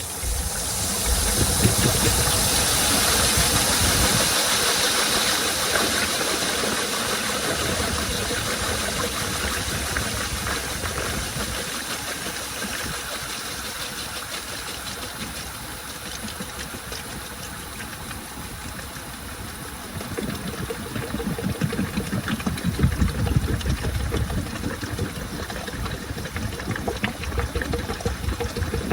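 Washing machine running a load of laundry: a rush of water hiss sets in suddenly and fades over the first several seconds, over the drum's motor and tumbling clothes. Low thumping from the turning drum grows louder in the last third.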